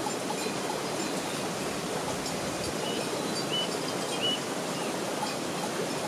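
Steady rushing noise of water outdoors, with a few short, high chirps a little past halfway.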